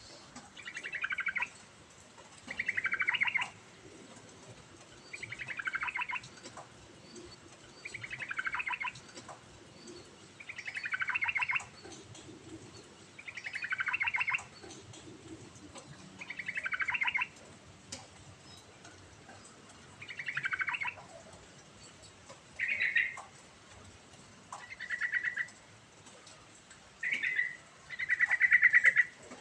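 Yellow-vented bulbul singing: a fast rattling phrase that falls in pitch, repeated about every two to three seconds, with shorter, steadier phrases in the last third.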